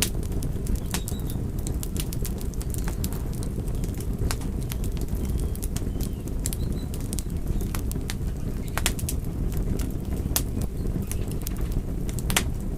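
Fire crackling: irregular sharp pops and snaps, several a second, over a steady low rumble of the burning.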